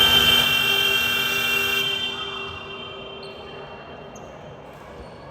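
Basketball scoreboard buzzer sounding: a steady multi-tone horn that starts suddenly, holds for about two seconds and then dies away over the next second or so.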